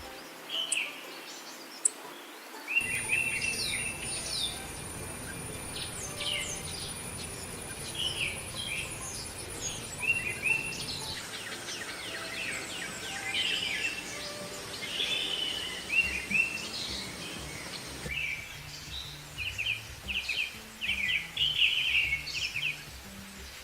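Several birds chirping and calling in short repeated phrases and trills, with a thin steady high tone under them for much of the time. The background changes abruptly a few times where different recordings are spliced together.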